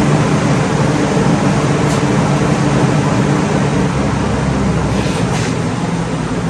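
Electric exhaust fan running steadily with a low hum and a wide whooshing hiss, two faint clicks over it.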